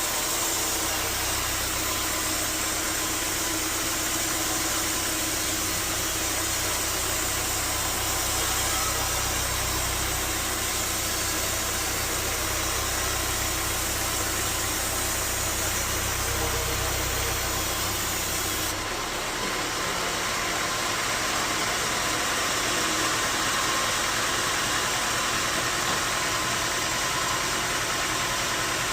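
Bandsaw sawmill machinery running steadily. About two-thirds of the way through its deep hum drops out and the higher noise changes, but the running goes on at the same loudness.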